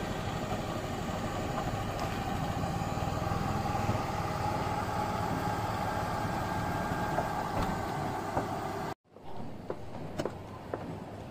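A small car engine idling steadily, most likely the Tata Nano's two-cylinder petrol engine. About nine seconds in the sound cuts off abruptly and gives way to a quieter background with a few light clicks.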